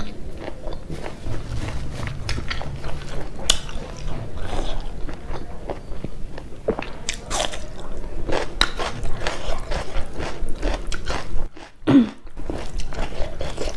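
A person chewing and biting a meal of meat curry, rice and raw onion close to a clip-on microphone, with repeated crisp crunches.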